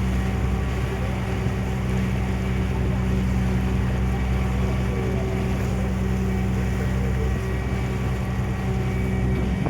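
Ferry's engine running steadily under way, a constant low hum with a few steady tones, under an even rushing noise.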